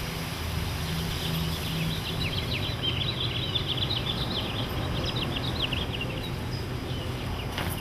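Small birds chirping in a quick, busy twitter from about a second and a half in until about six seconds in, over a steady low outdoor rumble.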